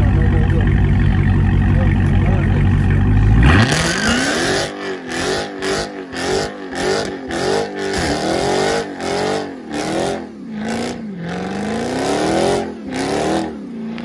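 A car engine running at a steady speed, then revved hard about three and a half seconds in and blipped up and down about twice a second in repeated throttle stabs until near the end.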